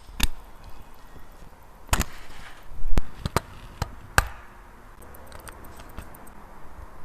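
Sharp clicks and taps of small tools and parts being handled during wristwatch servicing. There are about half a dozen separate clicks over the first four seconds, one of them a duller knock, followed by faint light ticking.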